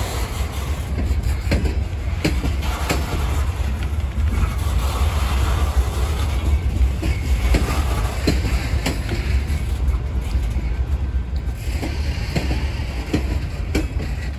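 Freight train of hopper and gondola cars rolling past at close range: a steady low rumble with irregular sharp clicks and clunks from the wheels and couplings.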